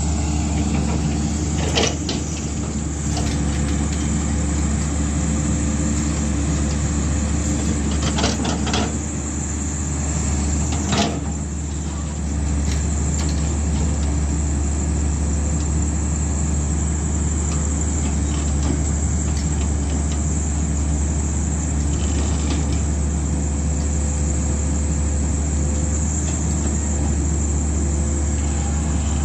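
Heavy diesel engine of earth-moving machinery running steadily under work, with a few short knocks: one about two seconds in, a cluster around eight to nine seconds, and one around eleven seconds.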